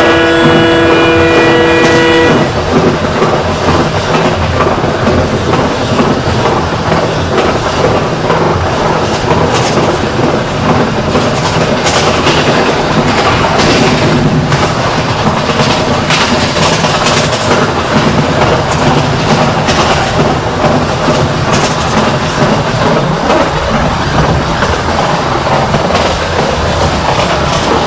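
Diesel locomotive air horn sounding a chord of several tones, cutting off about two seconds in; then the train running on with steady rumble and clickety-clack of wheels over the rail joints.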